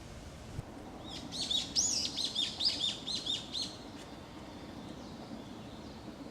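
A songbird singing a quick run of about a dozen high, arched chirping notes, starting about a second in and lasting a little under three seconds.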